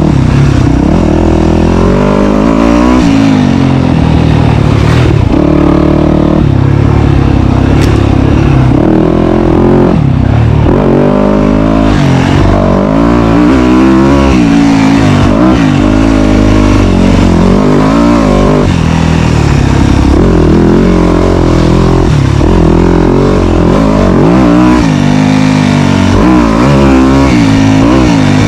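Dirt bike engine running hard, its pitch rising and falling again and again with the throttle.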